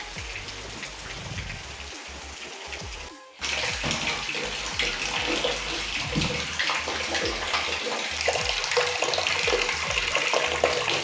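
Steady rain for about three seconds, then a sudden change to water running and splashing from a tap, with a few light clinks.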